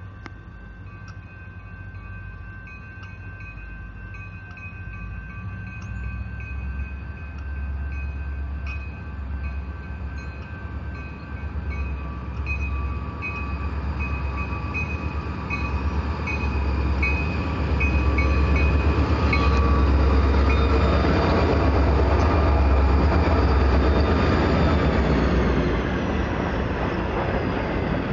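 Freight train led by Canadian Pacific EMD SD40-2 diesel locomotives approaching and passing close by. The low rumble of their 16-cylinder two-stroke engines grows steadily louder and peaks as the locomotives go by, about two-thirds of the way through; the rolling noise of the freight cars follows. A bell rings repeatedly during the approach.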